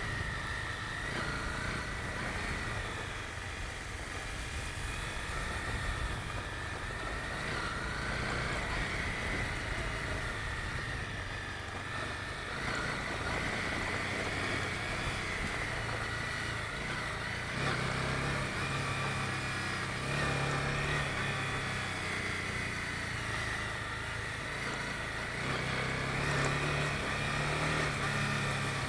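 Honda CB250R single-cylinder engine running while riding, with steady road and wind noise. The engine note comes up louder twice in the second half.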